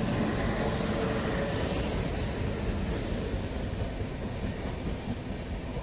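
Passenger train running past on the track: a steady rumble and rattle of wheels and coaches, easing off a little towards the end.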